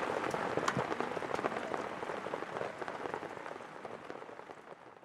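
Steady rain falling, a dense patter of many individual drops, fading out gradually toward the end.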